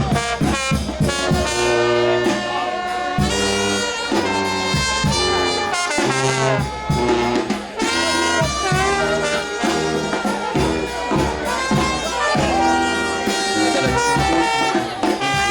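A New Orleans brass band playing a second line: trumpets, trombones and saxophone over a steady drum beat.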